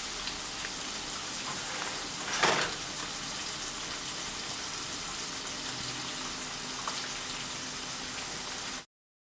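Flour-coated chicken breast pieces frying in hot oil, a steady sizzle with a brief louder surge of sizzling about two and a half seconds in. The sound cuts off suddenly near the end.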